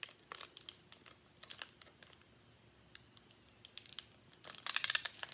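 Foil wrapper of a Pokémon card booster pack crinkling and crackling as it is handled and torn open, scattered sharp crackles building to a dense burst of crinkling near the end.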